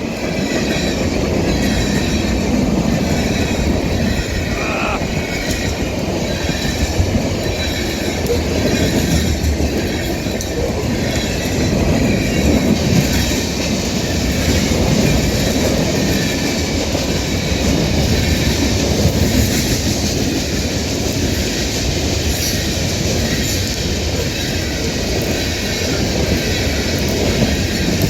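CSX freight train rolling past at high speed: a steady, loud rumble and rattle of wheels on rail, with faint high-pitched wheel squeal running through it.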